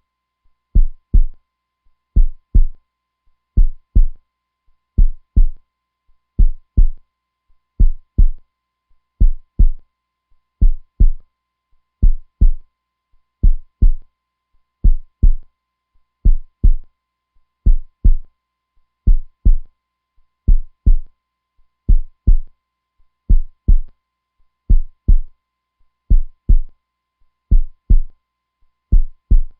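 A slow, steady heartbeat: paired deep thumps (lub-dub) repeating evenly, a little under once every second and a half.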